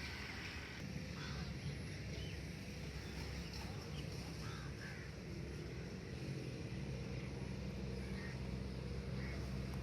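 Outdoor ambience: a steady low hum, with birds calling in short scattered chirps over it.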